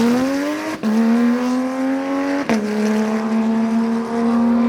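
A car accelerating hard away, its engine and exhaust rising in pitch through the gears. There are two quick upshifts, about a second in and again halfway through, each with a sharp crack and a drop in pitch, and then the engine holds a steady note.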